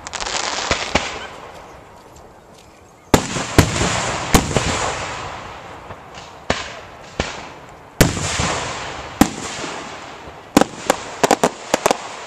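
Aerial fireworks shells bursting: a sharp bang every second or few, each trailing off in a fading crackling hiss, then a quick string of sharp cracks near the end.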